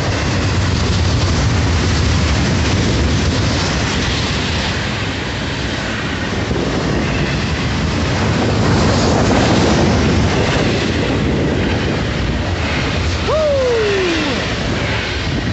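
Loaded double-stack container freight train rolling past close by: a steady rumble and clatter of steel wheels on the rails. Near the end a short tone slides downward.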